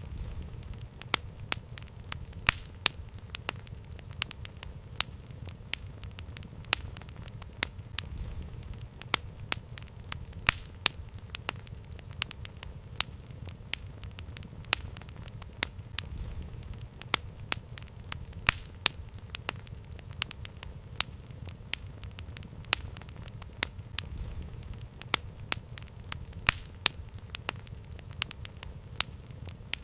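Campfire crackling: frequent sharp pops and snaps at irregular intervals over a steady low rumble.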